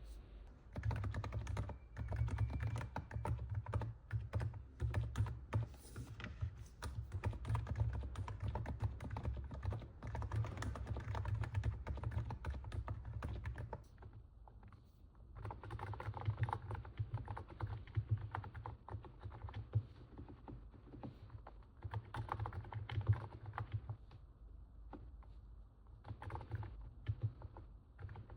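Continuous typing on a NIZ 68 Pro electro-capacitive keyboard: quick, irregular keystrokes with a sound likened to stepping on snow. The typing lulls briefly about halfway through and again near the end.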